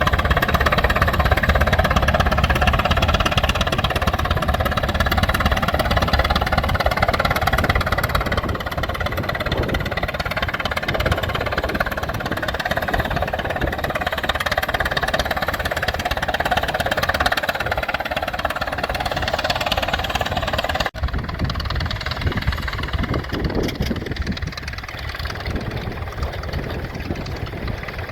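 Old engine running steadily with a mechanical drone. About 21 s in the sound cuts abruptly to a quieter, different engine running.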